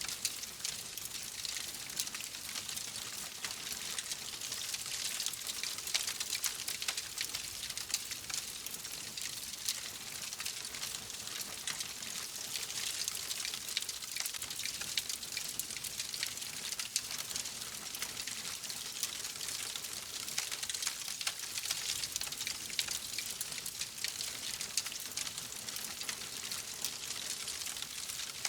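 Wood fire crackling steadily: a constant hiss of flames with many small, quick pops and snaps throughout.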